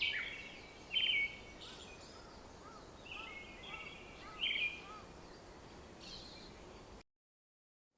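Several wild birds chirping and calling over a faint steady outdoor hiss, with the loudest chirps about a second in and again about four and a half seconds in, and a run of short, softer repeated notes in the middle. The sound cuts off abruptly into dead silence about seven seconds in.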